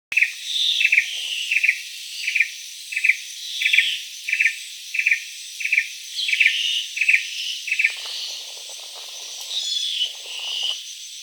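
Rainforest evening chorus: a short chirping call repeated about every two-thirds of a second, stopping about three-quarters of the way through, over a steady high-pitched insect drone, with a few other scattered calls.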